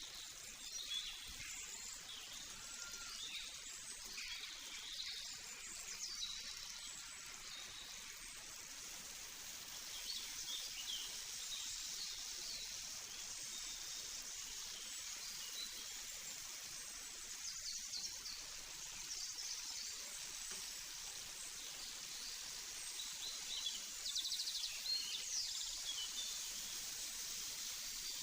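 Small birds chirping and twittering over a steady high hiss.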